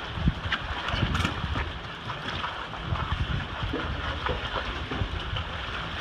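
Wind buffeting the microphone over choppy water, with irregular low knocks and thumps throughout.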